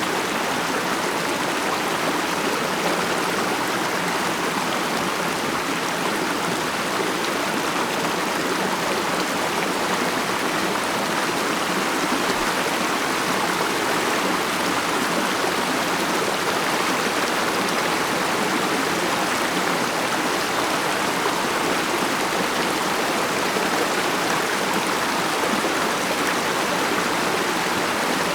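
Mountain stream flowing over rocks, a steady babbling rush of water.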